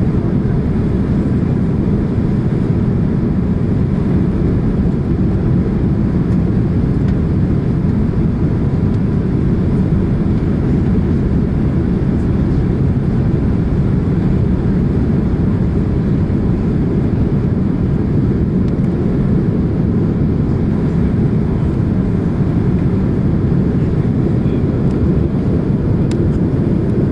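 Cabin noise of a Boeing 767-300ER: a steady low roar of engines and airflow.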